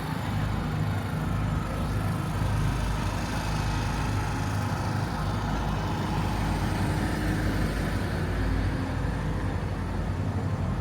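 Large truck engine idling steadily with a low, even hum.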